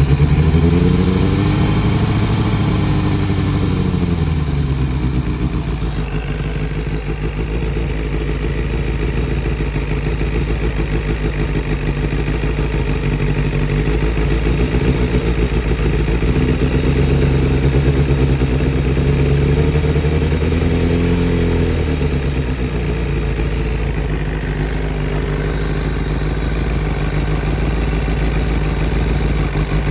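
Engine idling, twice raised to a higher speed for a few seconds and let back down to idle. The owner suspects a vacuum leak somewhere.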